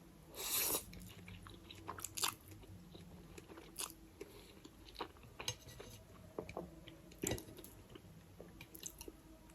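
A person biting and chewing food: irregular crisp crunches and small clicks from the mouth, the loudest bite about half a second in.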